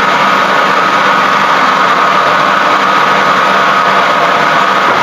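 A machine running steadily: a constant, unchanging hum with a steady whine.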